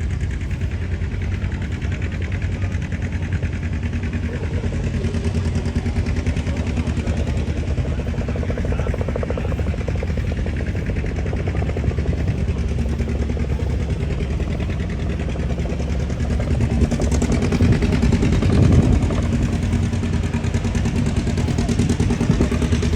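A large engine idling steadily with a low rumble, swelling louder for a couple of seconds about three-quarters of the way through.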